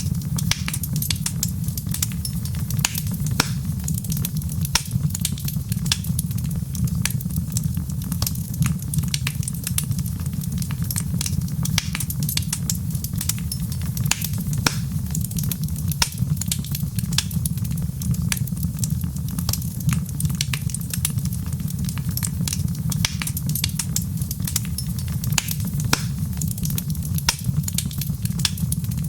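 Wood fire crackling steadily, with frequent sharp irregular pops over a continuous low rumble.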